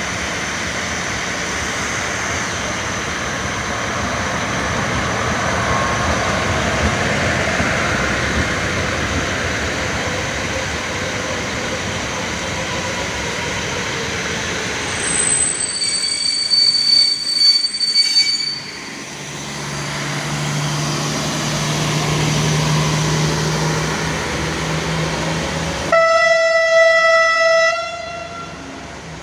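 An SM42 diesel locomotive and old passenger carriages roll past with steady wheel and engine noise, and a high wheel squeal sounds in short pieces about halfway through. A diesel engine tone follows, then near the end a diesel railcar's horn gives one long blast of about two seconds: the Rp1 'attention' signal sounded on departure.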